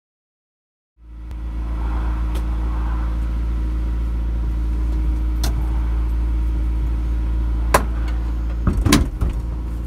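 1991 CB3 Honda Accord's engine idling steadily, heard from inside the cabin, starting about a second in. A few light clicks and knocks sound over it, with a small cluster near the end.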